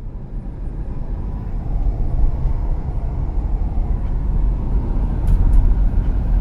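Car interior road noise while driving: a steady low rumble of tyres and engine heard from inside the cabin.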